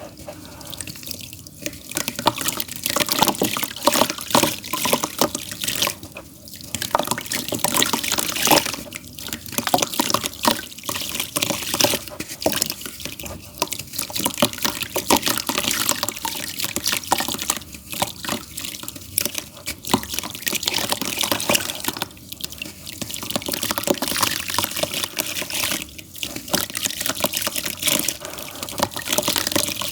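Damp pure clay crumbling: dense crackling and pattering of breaking chunks, in bursts with brief lulls about every four seconds.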